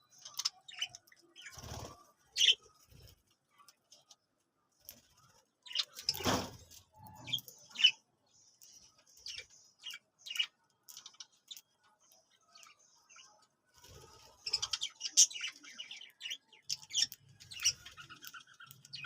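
Pet parrots chirping in short, scattered calls, with a couple of louder rustling bursts in the first half and the chirping thickest near the end.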